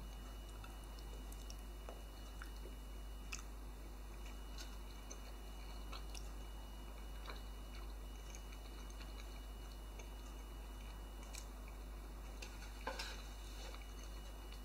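A person faintly chewing a mouthful of spaghetti with meaty chili sauce, with a few soft, scattered clicks.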